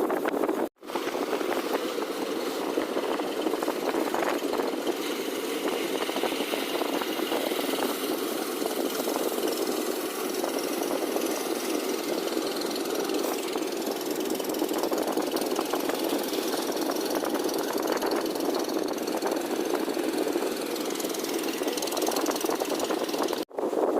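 Fishing boat's diesel engine running steadily, with a knocking chug, broken by two brief drop-outs, one just after the start and one near the end.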